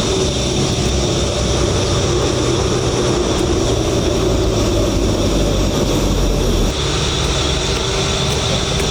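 An engine running steadily, its lowest rumble dropping away about two-thirds of the way through.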